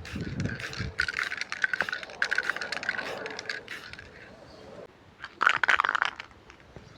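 Rapid clicking and rattling of small hard objects being handled, in two flurries: a long one in the first half and a shorter, louder one about five seconds in.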